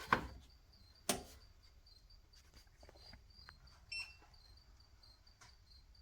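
Two sharp clacks, one near the start and one about a second in, over faint crickets chirping steadily; a short electronic beep sounds about four seconds in.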